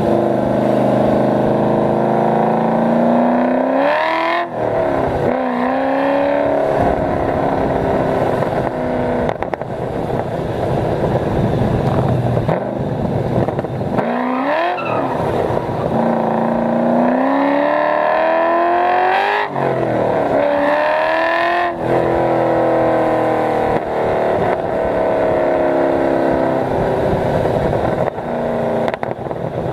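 Cammed 5.7 L LS1 V8 with long-tube headers and an X-pipe exhaust under hard acceleration, the revs climbing and then dropping sharply several times as it changes up through the gears, before easing off toward the end.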